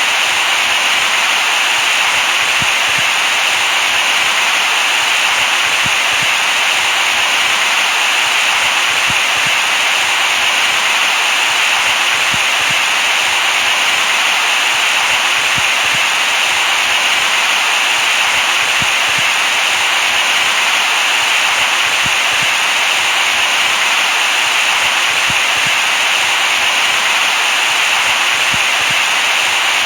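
Steady synthetic white noise: an even, unchanging hiss, brightest in the upper-middle range and thin in the bass.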